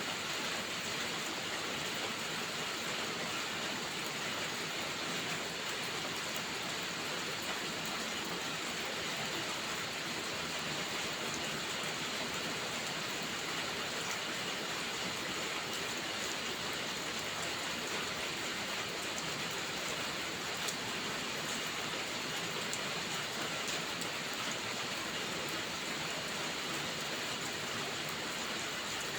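Steady rainfall, an even hiss with faint scattered ticks of drops.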